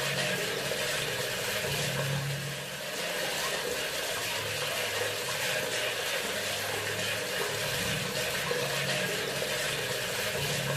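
Bathroom sink faucet running steadily, water splashing into the basin, with a low hum that swells and fades underneath every second or two.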